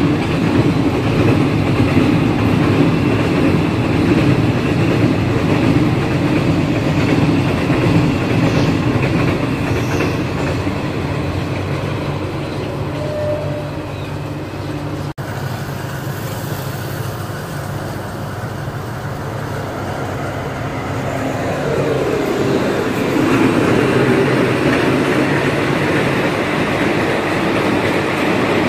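A freight train of container flatcars rolling past with steady wheel-on-rail noise. It cuts off suddenly about halfway through; the sound drops, then builds again as a train of passenger coaches comes by.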